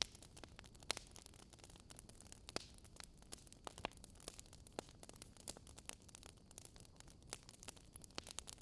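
Wood fire in a fireplace crackling: irregular sharp pops and snaps, several a second, over a low steady rush.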